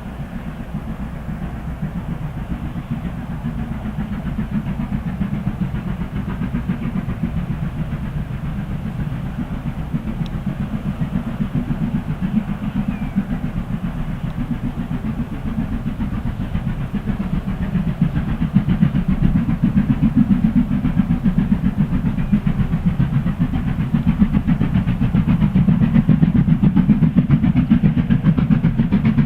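LMS steam locomotive working hard up a steep gradient, its exhaust beating fast and steadily, growing louder as it approaches.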